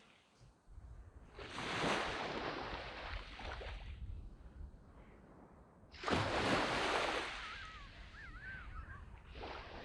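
Sea waves breaking and washing up on a sandy beach: two waves, about 1.5 seconds and 6 seconds in, the second louder.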